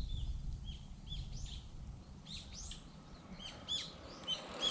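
Small birds chirping, many short high notes in quick irregular succession, over a low rumble of wind on the microphone.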